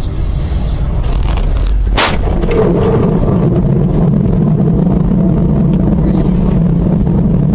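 Road vehicle noise, a loud low rumble, with a single sharp impact bang about two seconds in, then a steady heavy rumble.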